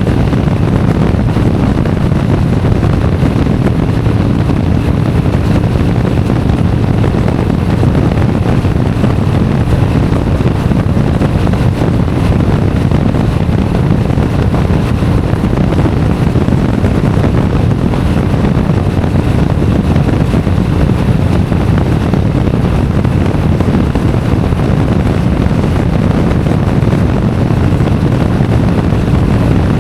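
Motorcycle engine running steadily at cruising speed, with wind rushing over the action camera's microphone.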